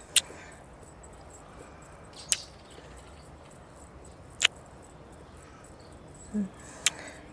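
Four short, wet lip-smack kissing sounds, about two seconds apart, with a soft low hum just before the last one. Behind them is a steady quiet bed of crickets and outdoor ambience.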